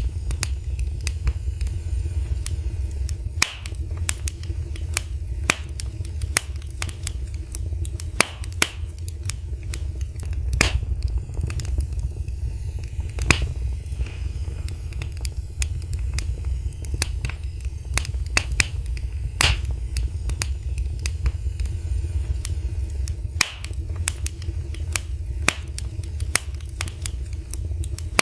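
Wood fire in a fireplace crackling: irregular sharp snaps and pops, a few louder than the rest, over a steady low rumble.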